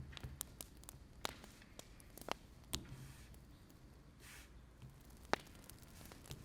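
Wood fire crackling: irregular sharp pops and snaps over a low rumble, with the loudest pop about five seconds in and a brief soft hiss just before it.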